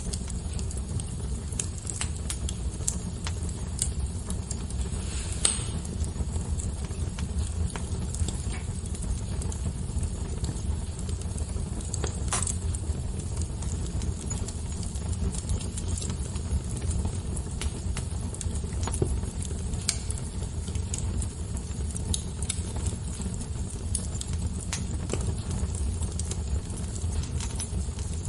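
Fire crackling: irregular sharp pops and snaps over a steady low rumble, with a few louder pops scattered through.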